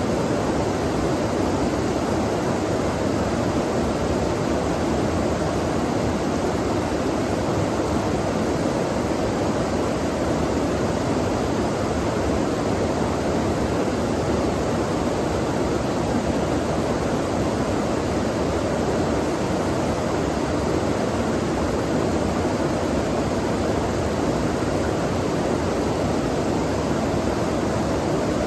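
Flowing water running in a steady, unbroken rush.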